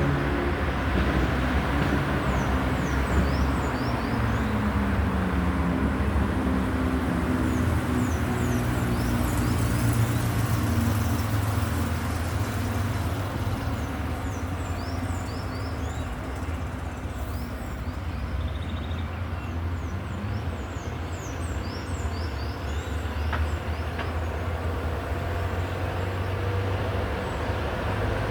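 A motor engine running steadily with a low hum, its pitch gliding down and back over the first few seconds. Clusters of short, high, falling chirps repeat over it.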